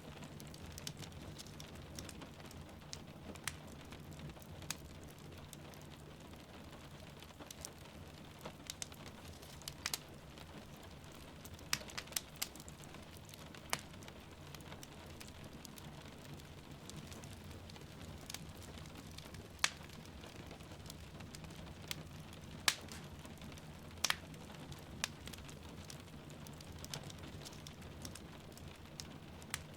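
Wood fire crackling in a fireplace, with irregular sharp pops every second or so, over the steady hiss of rain falling. A few louder pops stand out along the way.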